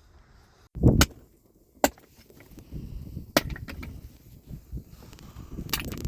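A few sharp knocks, the loudest a heavy double strike about a second in, then single strikes about a second and two and a half seconds later, with lighter clicks and rustling between.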